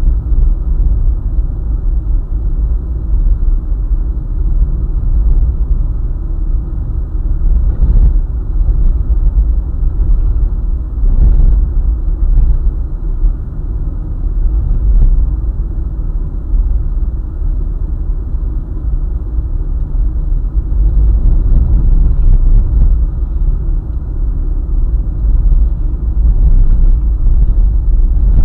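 Steady low rumble of a car driving along a highway, road and tyre noise with the engine beneath it. Two brief bumps come about eight and eleven seconds in.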